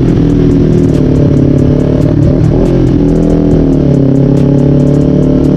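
Kawasaki Z400 parallel-twin engine running through a Toni Orion slip-on muffler, mixed with background music.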